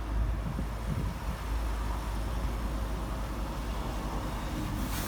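Vehicle engine idling steadily from a cold start, a low even rumble. A brief rustle comes near the end.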